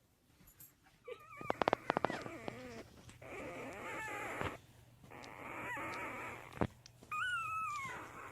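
A pet's drawn-out, wavering vocal calls, four in a row, the last one falling in pitch, with a quick run of clicks during the first.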